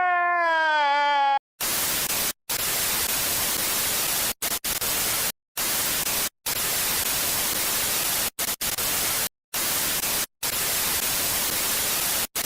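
A held pitched tone that sags slightly in pitch, cutting off about a second and a half in. Then loud TV-style static hiss, chopped by about ten sudden brief dropouts.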